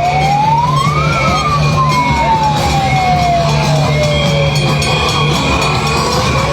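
A siren wailing, its pitch rising quickly about a second in, then falling slowly for several seconds before starting to rise again near the end, heard over loud music.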